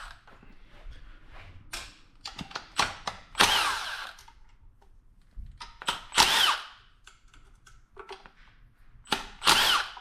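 Handheld power drill spinning in three short bursts, its pitch rising and falling as it runs up and slows, with small clicks of parts being handled in between. It is backing bolts out on a Honda engine so the spark plugs can be pulled.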